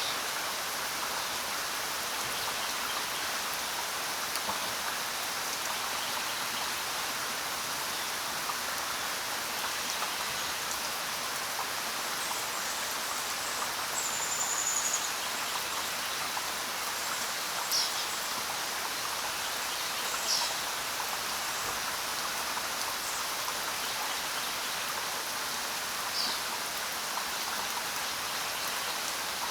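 Steady rain falling. A few brief, high bird calls sound over it, one of them a longer whistle about halfway through.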